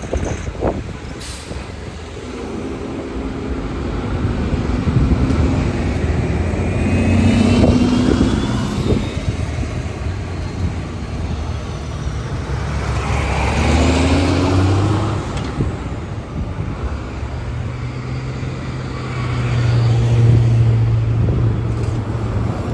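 City transit buses and traffic on a busy road: diesel bus engines running and pulling away, swelling louder twice, with a burst of air-brake hiss about midway.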